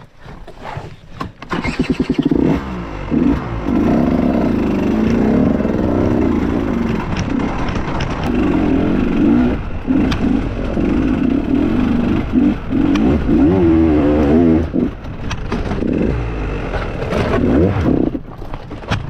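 Dirt bike engine revving up and down repeatedly, its pitch rising and falling in short bursts of throttle.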